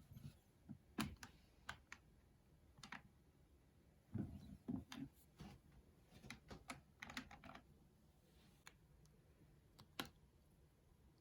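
Cosmetics being handled: faint, irregular clicks and taps of small cases and caps, bunched together for a few seconds in the middle, with one sharper click near the end.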